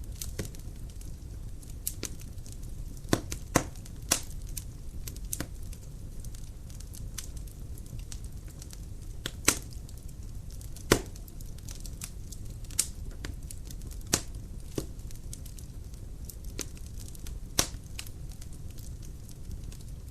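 Dry firewood burning in a fireplace, crackling with irregular sharp snaps and pops over the low, steady rush of the flames; two louder pops come near the middle.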